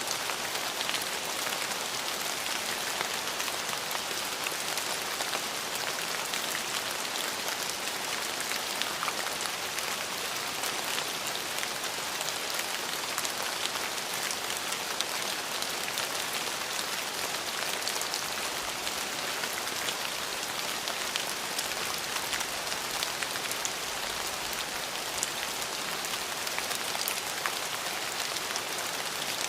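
Steady rain falling on a surface, an even hiss with many fine drop ticks, without a break or thunder.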